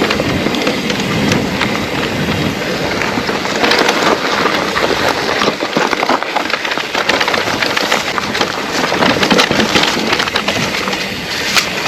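Trek Rail e-mountain bike rolling over a rough trail: tyres crunching and the frame rattling, a dense crackle of many small knocks that keeps up throughout.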